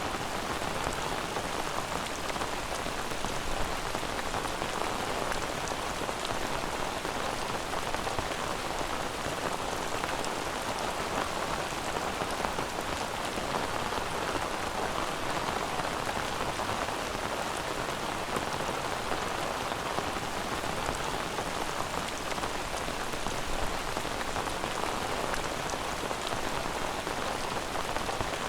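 Steady rain falling, an even patter of drops that holds without let-up.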